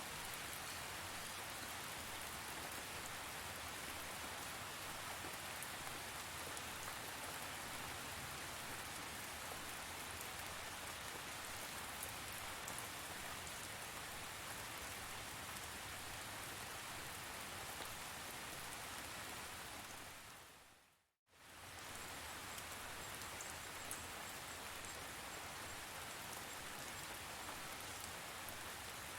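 Steady rain falling, a continuous even patter. About three-quarters of the way through it fades out to silence for a moment and comes straight back, like a join in a looped recording.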